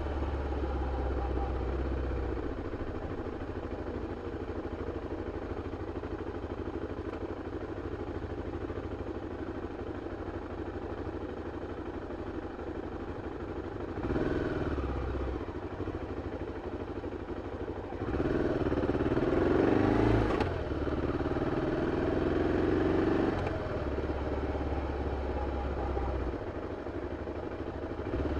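BMW F 650 CS motorcycle's single-cylinder engine on its original exhaust, running steadily, then opening up in revs briefly about halfway through and again for several seconds later before easing back.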